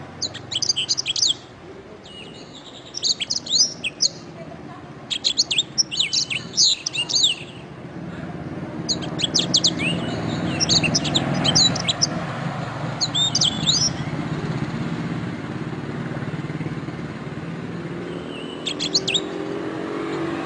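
Domestic canary singing in short phrases of rapid, high chirps and trills, about six bursts separated by pauses. A low background rumble swells under the song from about the middle on.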